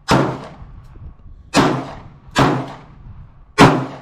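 Four single gunshots from a SIG Sauer firearm fired in irregular succession, each a sharp crack with a short echoing tail.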